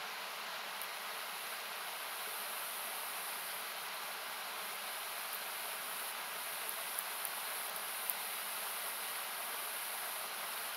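Steady hissing rush of a river, heard as a noise-like wash, with a few sharp crackles and pops from a wood campfire, the loudest about eight seconds in.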